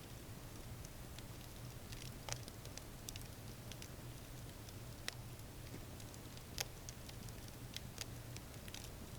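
Wood campfire crackling: scattered, irregular sharp pops and snaps, two of them louder, about two seconds in and again about six and a half seconds in, over a faint steady low hum.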